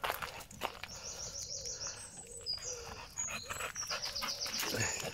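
A small songbird singing two fast runs of high, repeated chirps, the second starting a little under four seconds in, over soft scattered knocks.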